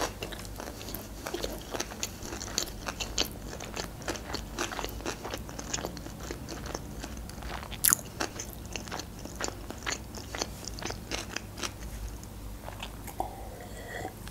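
Close-miked chewing of a mouthful of sushi roll: wet smacking with many small, irregular crunchy clicks, one sharper click about eight seconds in. Near the end comes a sip from a glass of cola.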